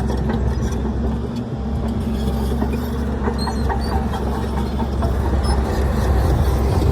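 Heavy diesel earthmoving machinery running steadily, with metallic clanks and rattles throughout. The engine sound dips briefly about a second and a half in and grows a little louder near the end.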